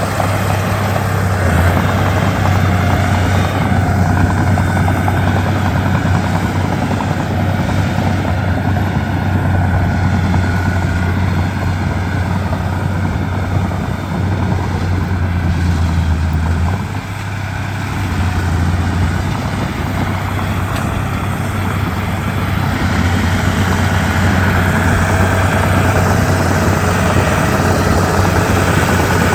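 Komatsu D31P bulldozer's diesel engine running steadily with a deep, heavy hum, easing off briefly about two-thirds of the way through before picking up again.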